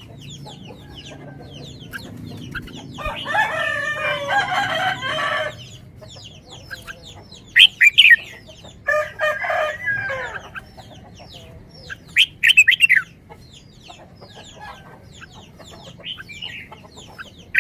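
Birds calling: a long pitched call lasting about two seconds begins about three seconds in, a shorter one follows about nine seconds in, and short, sharp chirps recur between them.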